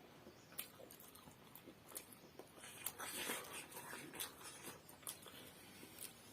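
Quiet eating sounds: momos being chewed, with scattered wet mouth clicks and smacks, and a louder burst of chewing and smacking about three seconds in.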